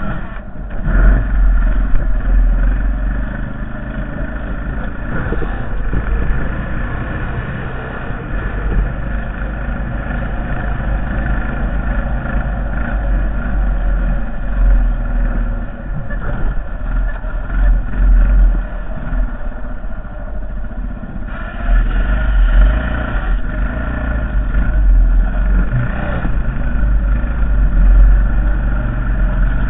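Honda Foreman TRX450ES ATV's single-cylinder four-stroke engine running under load while pushing a snow plow. Its level rises and falls, picking up again about two-thirds of the way through.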